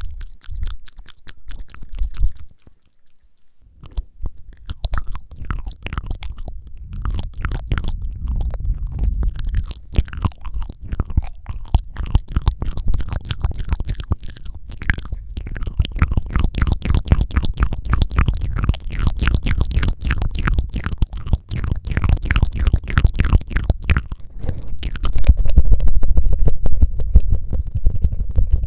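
Close-miked ASMR mouth sounds: rapid tongue fluttering and wet tongue clicks, a dense run of many small clicks each second. There is a short pause about three seconds in, and the clicks get louder near the end.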